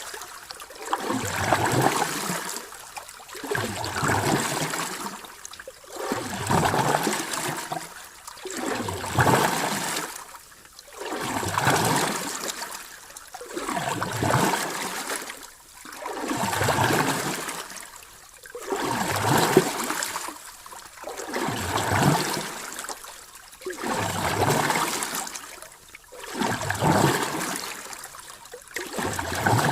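Sea waves washing in and draining back, each wash swelling and fading about every two and a half seconds in a very even rhythm.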